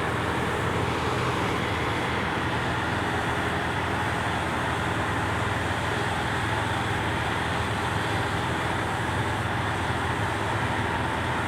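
Steady roar of highway traffic, an even noise with no distinct knocks or events.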